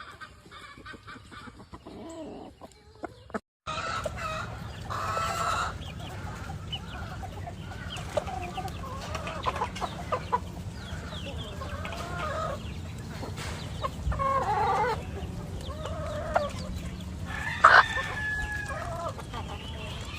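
Gamefowl chickens clucking and calling, with a rooster crowing loudly near the end over a steady low rumble. The sound drops out briefly about three and a half seconds in.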